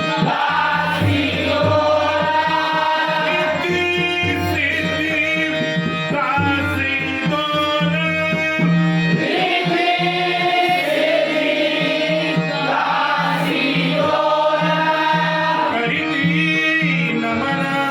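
Marathi devotional bhajan: voices singing over a harmonium, with pakhawaj and tabla keeping the rhythm.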